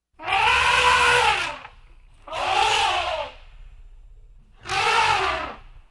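Elephant trumpeting three times, each call a long blare that rises and then falls in pitch, about two seconds apart, with faint low background noise between the calls.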